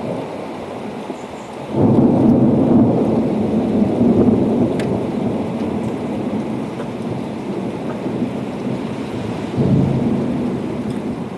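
Thunder rumbling over steady rain: a loud clap breaks in about two seconds in and rolls away slowly, with a second swell of rumble near the end.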